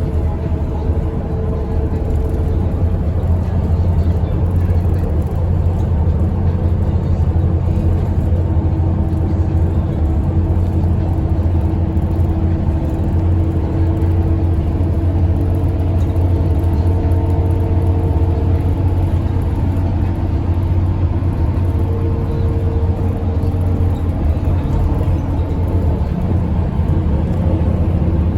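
Express bus engine running steadily at highway speed: a continuous low drone with road noise and a few faint steady higher tones over it.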